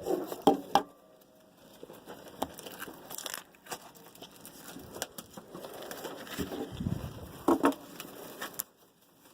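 Foil trading-card pack wrappers crinkling and tearing as packs are opened, with irregular sharp crackles and clicks, the loudest just after the start and again about seven and a half seconds in.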